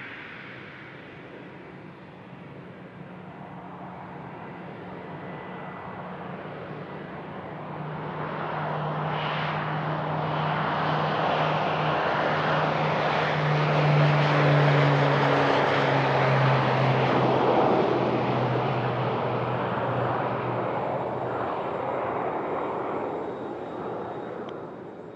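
An airplane passing close by. Its engine noise builds to a peak about halfway through and then fades, with a low hum that drops in pitch as it goes past.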